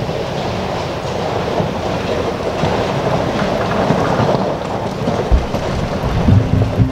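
A train rolling past: a steady rumble and hiss of wheels on rail, with a few low thumps near the end.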